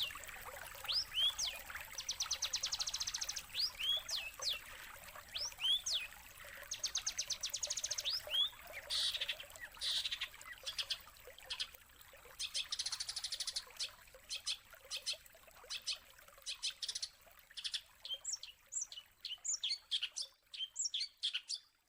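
Songbird singing a varied, fast song: sharp whistled notes sweeping up and down about once a second, stretches of rapid buzzy trills, and from about two-thirds of the way in, quick strings of chirps.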